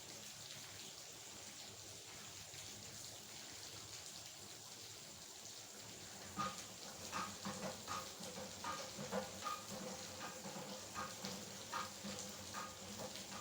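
Steady rain falling at night. From about six seconds in, louder drops or drips start landing irregularly, each a short tap with a brief ringing tone.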